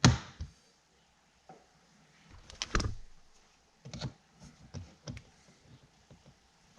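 Scattered clicks and knocks of small metal parts and hand tools being handled while vent window hardware is fitted, the loudest knock at the very start and a cluster about two and a half to three seconds in.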